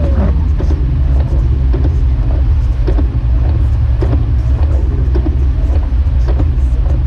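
Jeep Wrangler YJ driving on snow-covered roads: a steady, heavy low rumble from the engine and drivetrain, with frequent light clicks and rattles over it.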